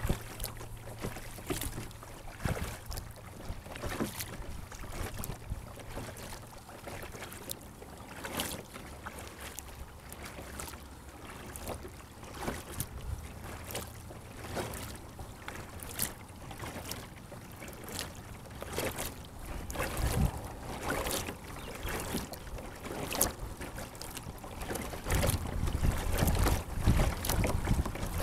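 Water splashing and dripping around a sit-on-top kayak as the paddle works, with irregular small splashes. Wind rumbles on the microphone, growing stronger over the last few seconds.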